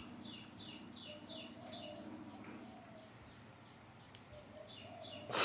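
A bird calling in a quick run of short, falling chirps, about three a second. The chirps pause in the middle and start again near the end. A low steady hum sits under the first half, and there is one sharp click right at the end.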